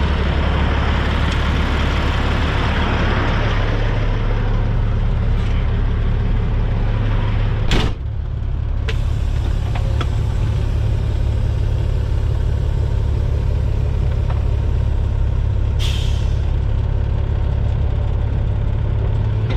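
Semi truck's diesel engine running steadily as the tractor pulls forward from the detached lowboy, with a sharp burst of hiss about eight seconds in and a shorter hiss near sixteen seconds.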